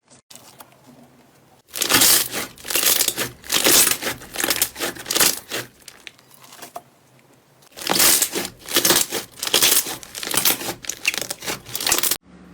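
Slime being squeezed and pressed by hand, giving crinkly, crackling sounds in two long spells, separated by a quieter pause of about two seconds.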